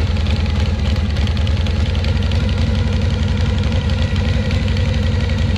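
Harley-Davidson Shovelhead V-twin engine idling steadily, with a fast clatter over the idle. This is the abnormal noise the bike started making on the road; the riders place it inside the engine or suspect a loose belt flapping.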